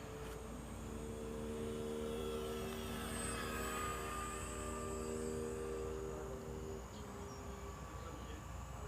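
Radio-controlled model airplane (a Cessna 182 kit of 100 cm wingspan) flying past: its motor and propeller give a steady hum, with a higher whine that falls in pitch about three to four seconds in as it goes by. The hum fades out near seven seconds, leaving crickets chirping.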